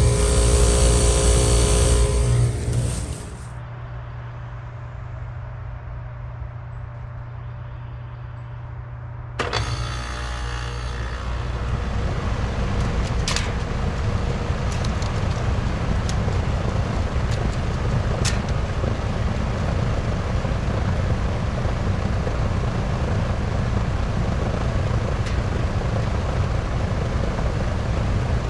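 2007 Rheem Classic heat pump outdoor unit running in heat mode. About three seconds in, its loud running drops away abruptly to a low hum. About nine seconds in, it starts up again with a sudden burst, builds over a couple of seconds to steady running, and gives a couple of sharp clicks.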